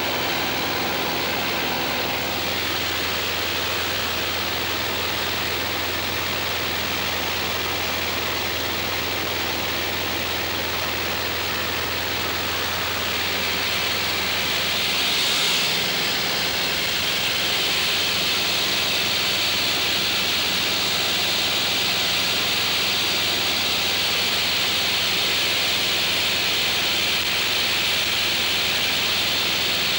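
Single-engine Cessna's piston engine and propeller droning steadily in flight, heard inside the cabin along with the rush of wind. The hiss grows slightly louder about halfway through.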